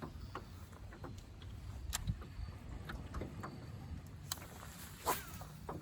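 Fishing boat moving across the lake: a low steady rumble with a few sharp clicks and knocks.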